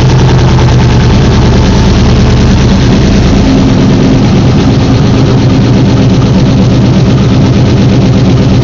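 An engine running steadily and loudly close by, with a fast, even pulsing and no change in speed.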